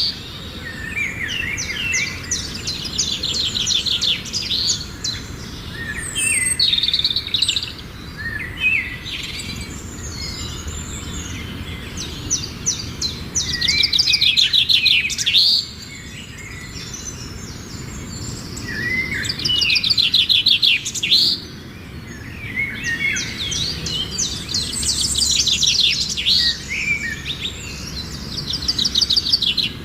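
A flock of migratory waterbirds calling, many overlapping chattering, whistling calls that swell in repeated loud bursts and then ease off.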